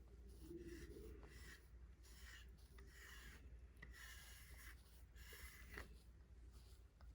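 Faint strokes of a brush drawn through a cat's fur, repeated about once a second.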